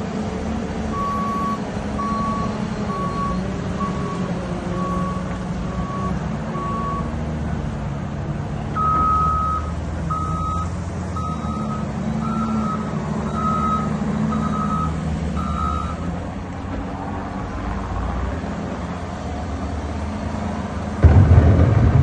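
Diesel engines of heavy snow-removal equipment running, with reversing alarms beeping. One alarm beeps about once a second for several seconds; after a short gap a second, slightly higher-pitched alarm beeps for several seconds more. A loud low thud or surge comes near the end.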